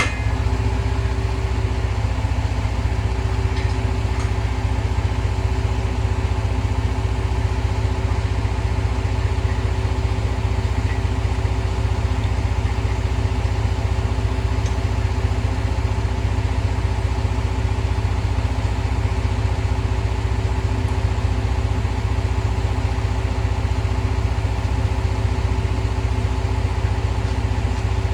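Truck engine running at a steady, unchanging speed with a constant low hum.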